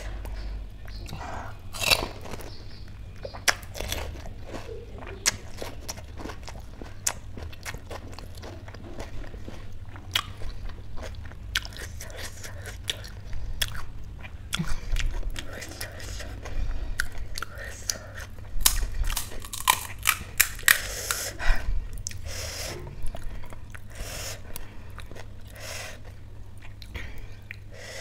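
Pani puri being eaten: crisp fried puri shells crunching between the teeth, with wet chewing between the sharp crunches, which come most often in the second half. A steady low hum runs underneath.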